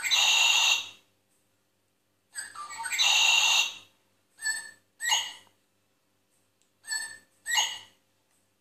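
Shrill, high-pitched bird-like calls in bursts: one call about a second long at the start and another near the middle, then two pairs of short calls.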